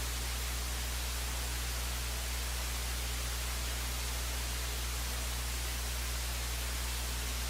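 Steady electrical hum and hiss on an idle broadcast audio feed, with no events and no change in level.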